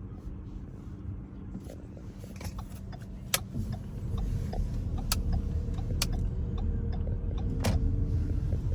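Car driving slowly, heard from inside the cabin: a steady low engine and road rumble that grows louder about halfway through, with four sharp clicks over the second half.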